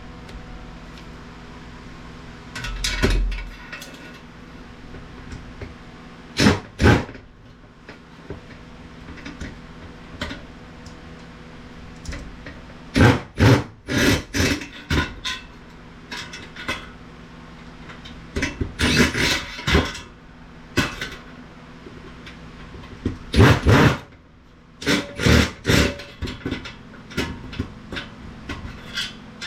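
Metal IT equipment being taken apart by hand: clusters of clanks, clicks and short rattling bursts as parts and screws come loose, over a steady low hum.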